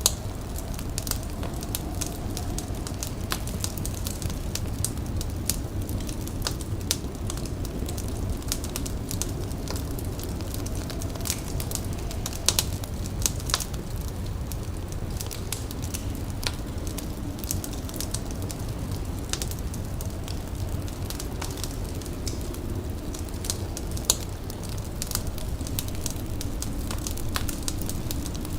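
An indoor fire crackling steadily, with frequent irregular sharp pops and snaps over a low, even rumble.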